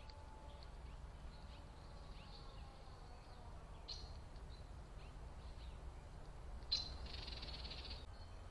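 Faint bird chirps, with a sharper call about four seconds in. Near the end comes a louder call followed by a buzzy note lasting about a second, over a low steady rumble.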